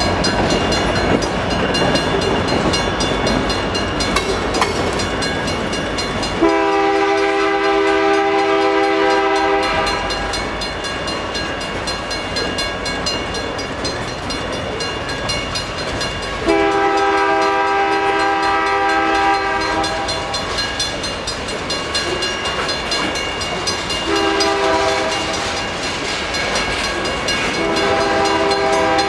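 Freight cars of a slow manifest train rolling past on jointed rail with a steady clatter. A locomotive horn blows four blasts, long, long, short, long: the standard signal for a grade crossing.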